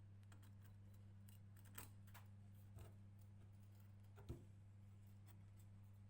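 Near silence: a steady low hum with three faint clicks, the last and loudest about four seconds in.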